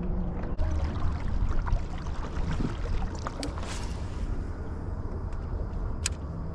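Kayak on the water: water sloshing against the hull and wind noise, with a few short clicks and knocks.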